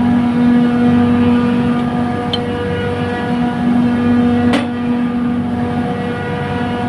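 Trane chiller compressor running with a steady, loud hum of one pitch and its overtones, with one sharp click about two-thirds of the way through.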